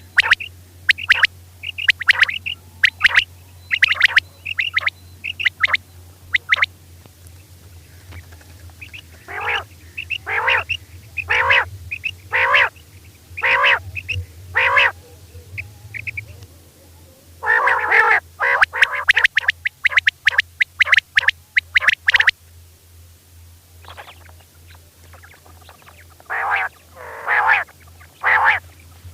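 Female common quail calling: short repeated call notes in bursts, some higher and thinner, some lower and fuller, with pauses between the runs. A steady low hum lies underneath.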